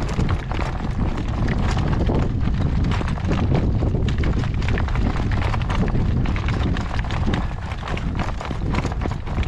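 Hooves of a young harness horse clattering at a fast gait, many quick irregular strikes, over a steady low rumble of wind buffeting the microphone.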